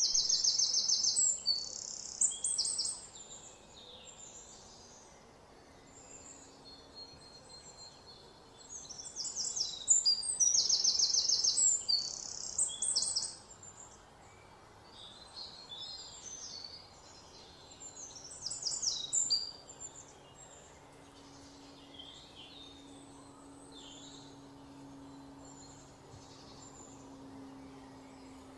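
A songbird singing loud, high-pitched phrases of fast trills, three bouts (at the start, about ten seconds in, and about eighteen seconds in), with fainter chirps between. A faint steady low hum joins in the second half.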